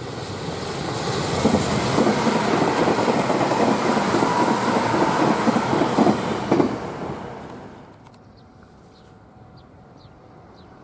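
Electric commuter train passing at speed, its wheels clacking over rail joints; the sound builds, stays loud for several seconds, then dies away about seven seconds in. Faint bird chirps are left afterwards.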